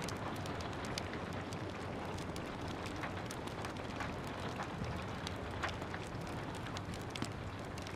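Steady rain, with many scattered sharp clicks and pops from a crackling wood fire.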